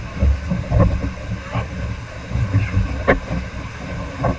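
River rapids rushing and churning, with wind buffeting the microphone and several sharp knocks or splashes, the loudest about three seconds in.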